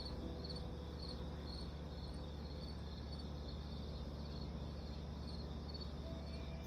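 Crickets chirping steadily, about two chirps a second, over a steady low hum.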